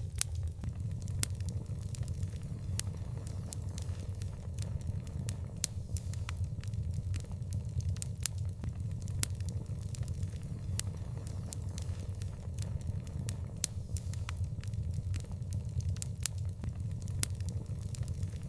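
Wood fire crackling, with frequent sharp pops and snaps, several a second, over a steady low rumble.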